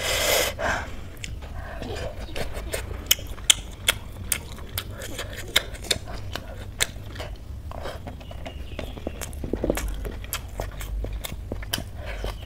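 Close-up eating sounds: wet chewing and lip-smacking with many sharp, irregular mouth clicks as rice and curry are eaten by hand, with a brief rustling burst at the very start. A steady low hum runs underneath.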